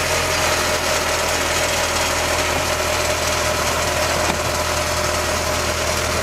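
A vehicle engine idling steadily, a constant low hum that neither rises nor falls.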